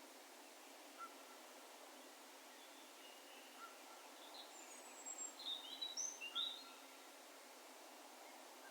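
Faint, distant bird calls over a steady hiss of open-air ambience: a short single note repeating every two to three seconds, and a brief burst of high chirps and whistles about halfway through.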